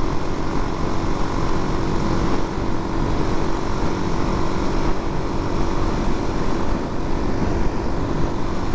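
Suzuki DR-Z400's carbureted single-cylinder engine running at a steady cruise under way, mixed with rushing wind noise.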